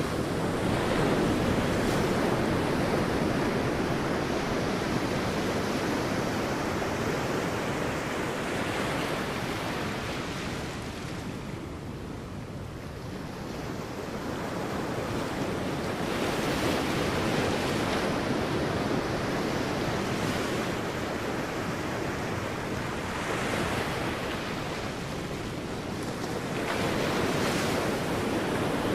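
Sea waves breaking and washing on a beach, a continuous surf that swells and ebbs, easing off about halfway through before building again with fresh breakers.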